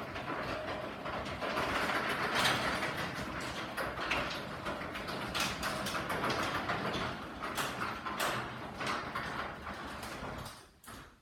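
Garage door opener running as a sectional garage door closes, with rollers rattling and clicking along the tracks. The run stops about ten and a half seconds in, followed by a single click.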